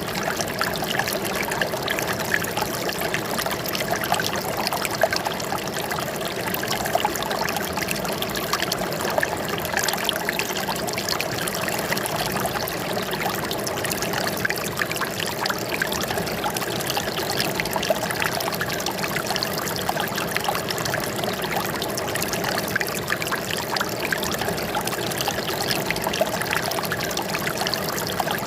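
Water trickling and splashing in a steady flow, with many small splashes and no pauses.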